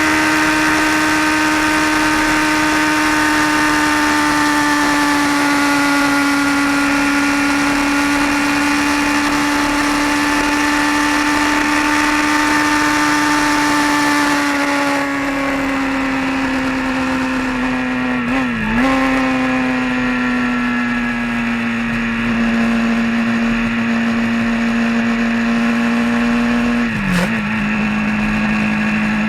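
Vehicle engine and road noise at a steady cruise, a constant drone whose pitch sinks slowly. About halfway the hiss drops off as the engine eases, and twice in the second half the pitch dips briefly before settling slightly lower.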